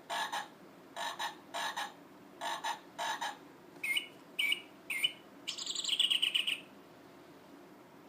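Electronic sound chip of a children's play-a-sound book playing recorded animal calls: three pairs of short hooting notes, then three quick bird-like chirps and a longer warbling trill, over a faint hiss.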